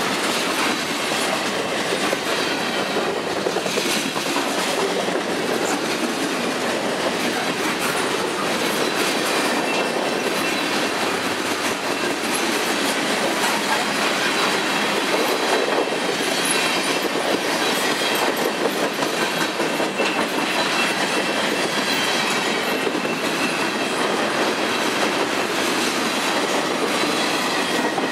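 Freight cars rolling past close by: a steady rumble of steel wheels on rail, clacking over the rail joints. Now and then there is a faint high squeal from the wheels.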